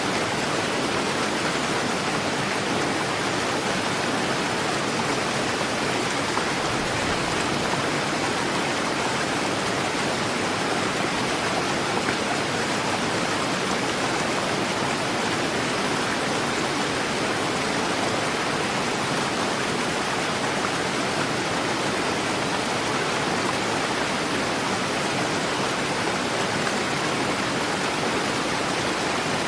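Fast-flowing river water rushing steadily, a dense even hiss with no letup.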